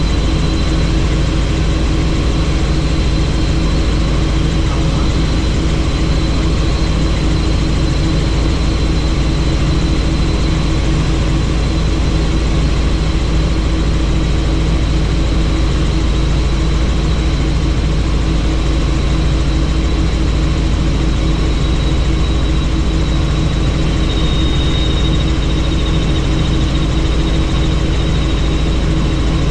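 Helicopter in flight heard from on board: a steady, loud drone of rotor and engine with a thin high whine above it.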